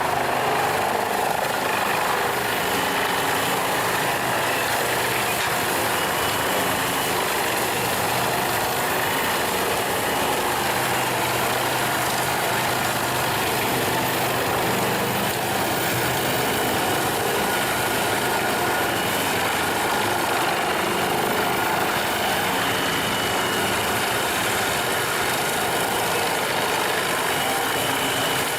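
Wood chipper running steadily, a dense, even machine noise without a break.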